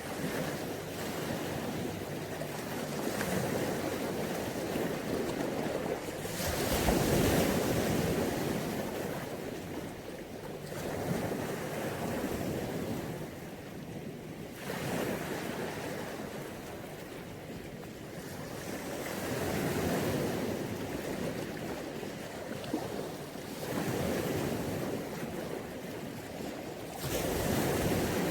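Mediterranean Sea waves breaking and washing onto the beach, the surf swelling and fading every few seconds, loudest about seven seconds in.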